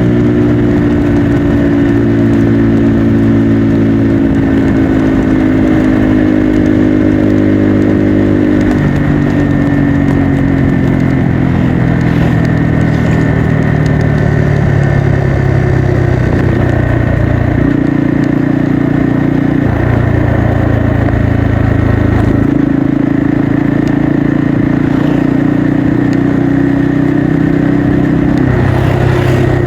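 Bajaj Pulsar N250's single-cylinder engine and exhaust running on the move, holding steady notes that shift up and down in pitch several times as throttle and gear change.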